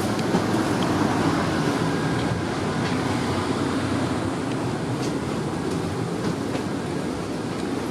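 ADtranz/Bombardier Variotram low-floor tram running: a steady rumble of wheels on rail, with a few light clicks now and then.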